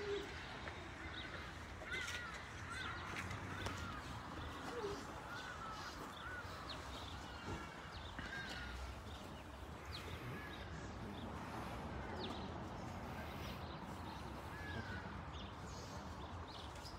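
Birds calling repeatedly: short rising-and-falling calls, several in quick succession in the first few seconds and then scattered ones, over a steady low outdoor rumble.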